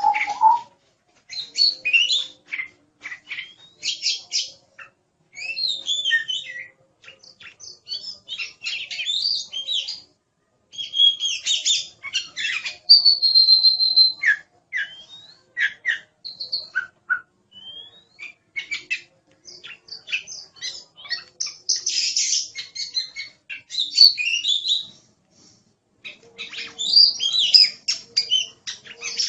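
Oriental magpie-robin (kacer) singing vigorously: a varied run of clear whistles, fast chattering notes and sliding phrases, in bursts with brief pauses.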